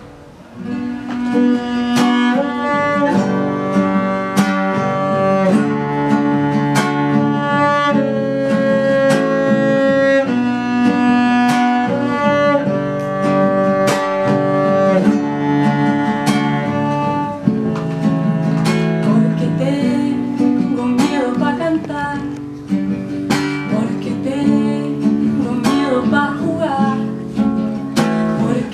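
Live acoustic music: the instrumental introduction to a song, with guitar plucked in a steady pattern under long held notes that sound like bowed strings.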